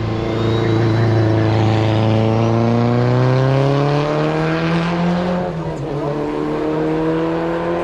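Hillclimb race car engine under hard acceleration, its pitch climbing steadily, with one upshift about five and a half seconds in before it climbs again.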